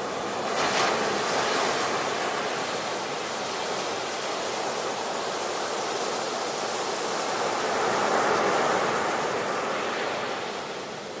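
Ocean surf: a continuous wash of waves, swelling as a wave breaks about a second in and again about eight seconds in, then easing off near the end.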